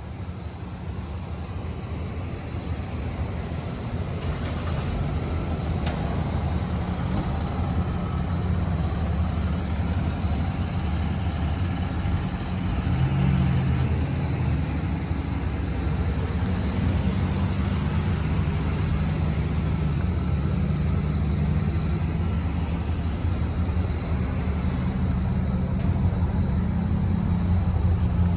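1992 Cadillac's engine running with a steady low drone that grows louder over the first several seconds and shifts briefly in pitch about halfway through.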